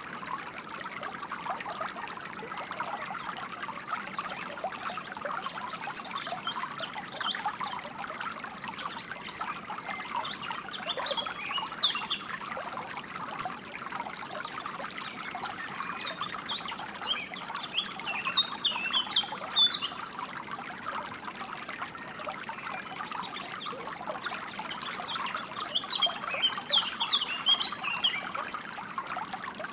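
Steady trickling, flowing water, with small birds chirping and twittering in several short bursts over it.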